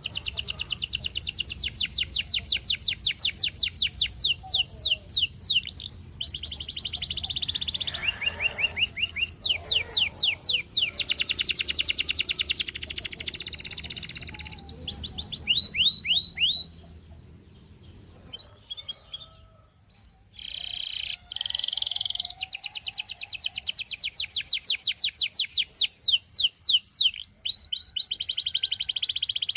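Russian singing canary in full song: fast trills of repeated sweeping notes that change pattern every few seconds, with a short pause past the middle before the song resumes.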